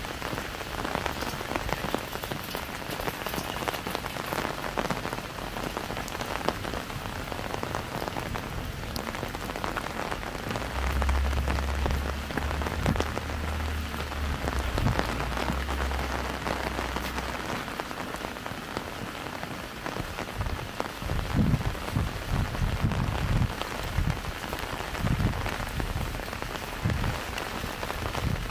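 Light rain falling on an umbrella: a dense run of small drop ticks over a steady hiss. A low rumble holds for several seconds in the middle, and a few low thumps come in the last third.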